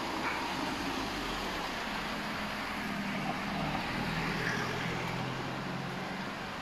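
Street traffic with a steady background hiss, and a vehicle engine humming as it passes from about two seconds in until near the end.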